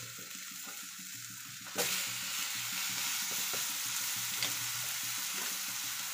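Batter-coated bread slices sizzling in oil and butter in a frying pan. Just under two seconds in, the sizzle gets suddenly louder as a slice is turned over onto the hot pan, then holds steady.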